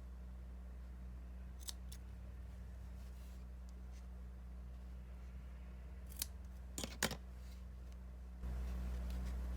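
Scissors snipping through felt: two short cuts near two seconds in, then three more about six to seven seconds in, the last the loudest. A steady low hum runs underneath and gets louder near the end.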